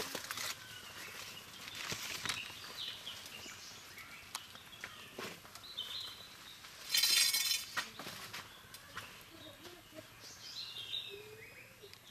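Small birds chirping in the background, with scattered clicks and rustles of the snake hook and cloth bag being handled. A short, loud rush of noise comes about seven seconds in.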